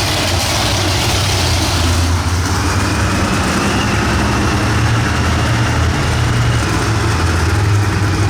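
Monster truck engine idling with a steady deep rumble. A faint high whine joins about two seconds in.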